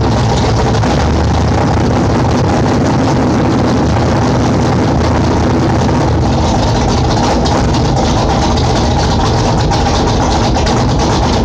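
1974 Chevy Nova's 355 cubic-inch small-block V8 idling, loud and steady.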